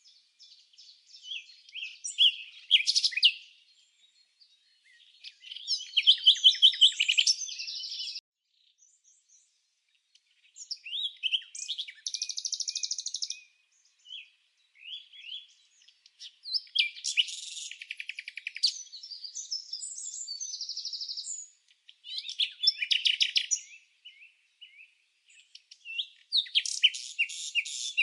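Songbird singing: high-pitched phrases of varied chirps and fast trills, separated by pauses of a second or two.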